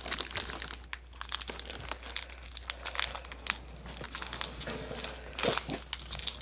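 Plastic cracker wrapper crinkling in irregular crackles as the packet is handled and opened, louder for a moment about five seconds in.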